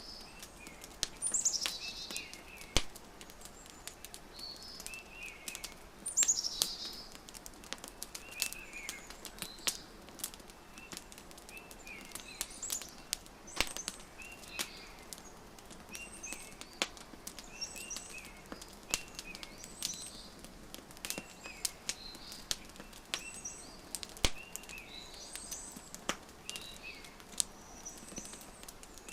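Wood fire crackling with scattered sharp pops, over birdsong: short chirps repeated every second or two, and two louder calls sliding downward in the first seven seconds.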